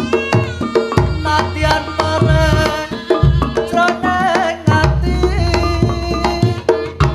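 Instrumental break of a Javanese pop song played by a band: hand drums beating a busy pattern over deep bass, with a melodic lead and sustained instrument lines, no singing.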